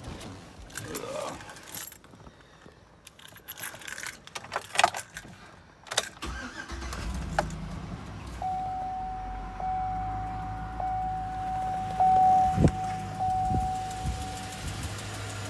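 Keys jangling and clicking, then about six seconds in the 2007 Chevy Suburban's 5.3-litre V8 cranks, starts and settles into idle. It is running on fresh oil with Lucas oil stabilizer after an engine flush, a fix for its lifter tick. A steady high tone comes on about two seconds after the start and holds for about six seconds.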